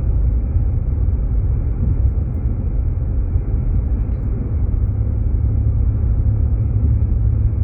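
Steady low rumble of a Jeep Grand Cherokee driving: engine and tyre noise heard from inside the cabin.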